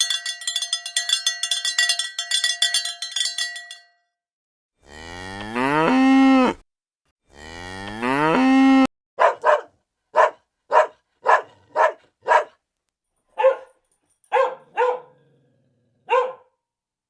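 A cowbell clanks rapidly for about four seconds. Then a cow moos twice, each long call rising in pitch. Then a dog barks about eleven times in short barks, some in quick runs and some spaced apart.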